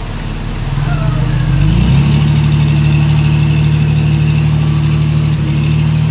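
Heavy diesel engine picking up speed in the first two seconds, then running steadily at the higher speed.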